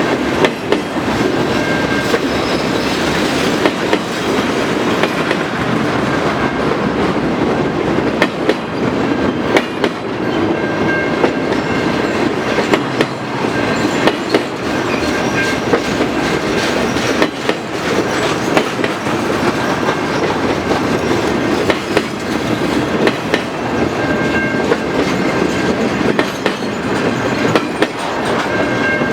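Freight train cars rolling slowly past, wheels clacking over rail joints in a steady stream of clicks, over a continuous rumble with brief high squeals now and then.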